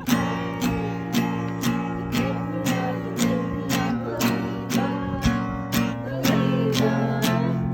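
Acoustic guitar strummed in a steady rhythm, about two strums a second, with people singing along.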